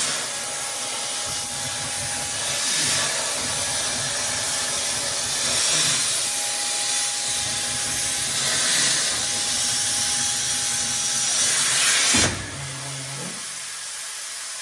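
CNC plasma cutting table cutting out plates: a loud, steady hiss with a faint whine that comes and goes, cutting off abruptly about twelve seconds in and leaving a quieter hiss.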